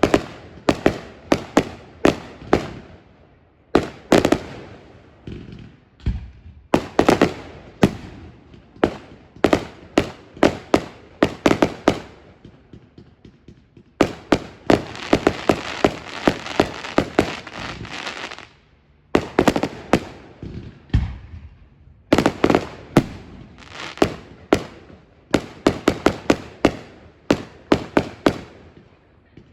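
Fireworks display: many sharp bangs of exploding shells in quick, irregular volleys. About halfway through, a dense crackling burst lasts some four seconds.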